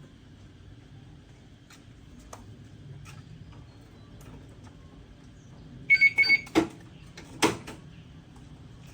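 Three quick high-pitched electronic beeps about six seconds in, followed by two sharp knocks, over a faint low hum.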